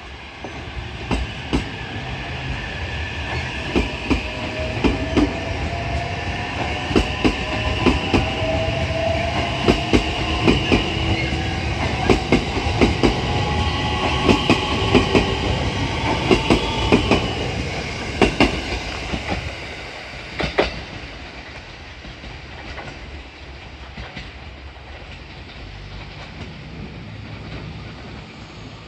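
A train running past, its wheels clacking over rail joints in a fast, uneven run of knocks, with a faint whine slowly rising in pitch. The clacking stops about two-thirds of the way through and the sound fades to a low rumble.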